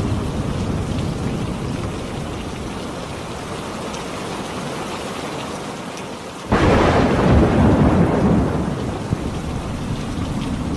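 Steady rain falling during a thunderstorm. About two-thirds of the way in, a sudden loud thunderclap breaks, stays loud for about two seconds, then dies away into a low rumble under the rain.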